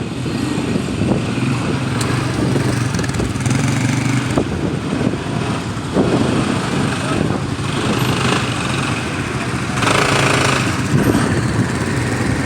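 Quad bike engine running steadily, with a louder rush of noise about ten seconds in.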